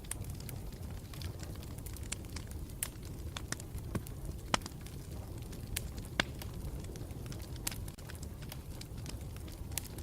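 Campfire burning, a steady low rumble of flames with irregular sharp crackles and pops, a couple of louder pops about four and a half and six seconds in.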